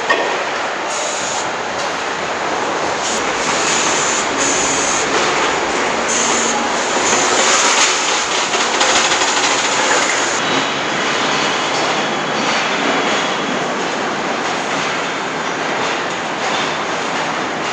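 Assembly-plant floor noise: a steady, dense machinery din with no distinct tones, broken over the first half by intermittent bursts of high hiss.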